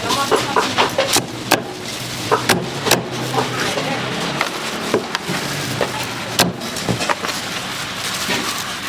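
Irregular sharp knocks on wood, like a cleaver striking a wooden chopping block, about a dozen of them unevenly spaced over a steady background hiss.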